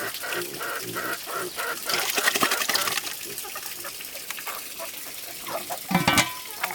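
Farm animals calling in short repeated notes, with a burst of splashing or gushing water about two seconds in and a louder call near the end.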